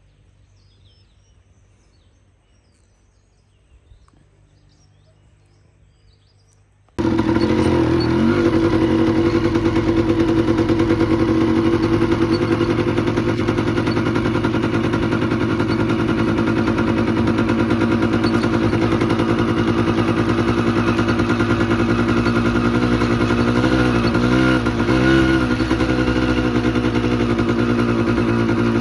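Quiet ambience with a few faint bird chirps, then about seven seconds in a motorcycle engine cuts in suddenly and runs loud and steady. A brief wavering in its pitch comes later on.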